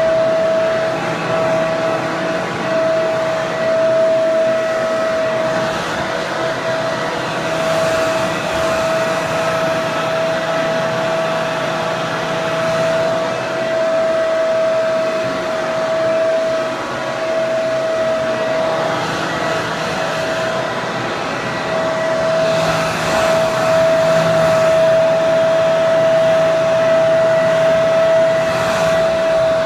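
Hair dryer running continuously: a steady rush of air with a strong, constant whine from the motor and fan.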